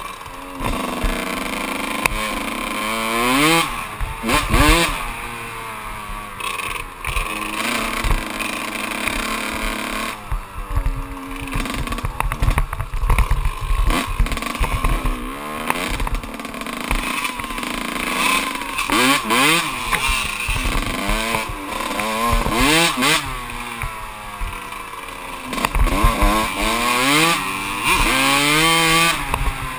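Kawasaki KX125 125 cc two-stroke dirt bike engine under riding load, revving up through the gears several times, each climb in pitch followed by a drop at the shift, with steadier stretches in between.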